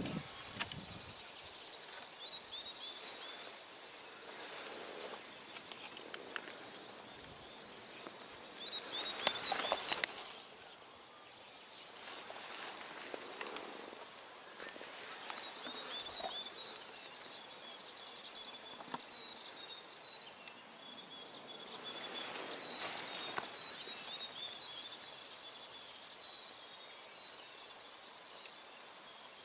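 Small birds singing in repeated high trills and descending phrases, with a couple of sharp knocks about nine to ten seconds in.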